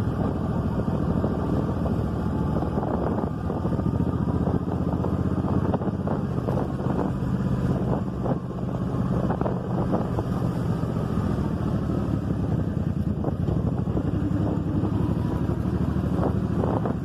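M800 motorcycle engine running steadily while riding, with wind buffeting the microphone.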